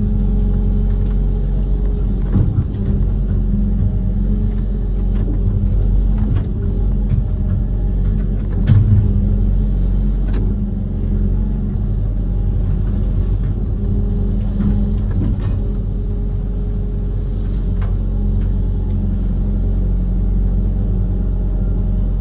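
Diesel engine of a Kobelco SK130 amphibious excavator running steadily under work, with a few short knocks along the way.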